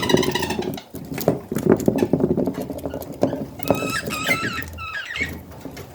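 Budgerigars chattering, with a run of quick high chirps about two-thirds of the way through and scattered sharp clicks.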